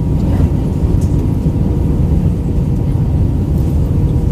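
Steady cabin noise inside an Airbus A319-112 airliner during descent: a low rush of airflow and CFM56 engine noise, with a faint steady hum running under it.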